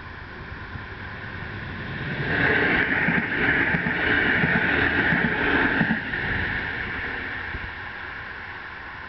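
Electric multiple-unit commuter train passing over a level crossing. Its rolling noise swells about two seconds in, stays loud for roughly four seconds with uneven low clatter from the wheels, then fades as it runs away.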